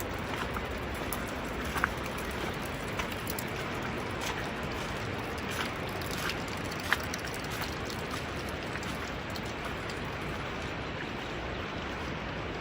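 Steady rain falling, with scattered individual drops landing close by as sharp ticks, more of them in the first half.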